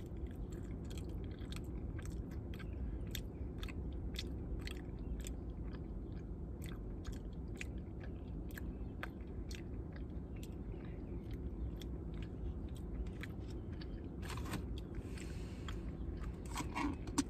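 Close-up chewing of a mouthful of red beans and rice, with many small wet mouth clicks over a steady low hum. Near the end comes a few seconds of rustling as the paper food box is handled.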